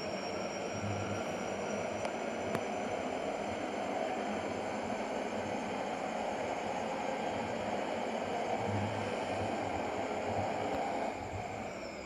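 Steady rush of road and engine noise from a moving truck, dropping somewhat near the end.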